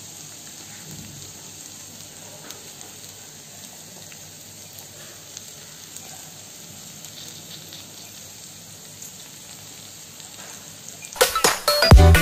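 Onions sizzling steadily as they sauté in a pan. Loud dance music with a strong beat comes in suddenly near the end.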